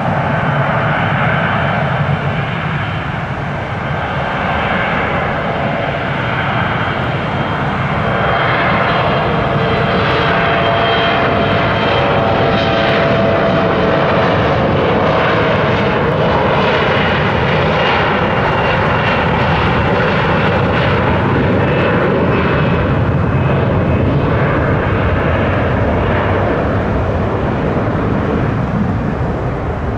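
Airliner engines running loud and steady, with several thin engine tones slowly drifting in pitch. It grows louder about eight seconds in and eases off near the end.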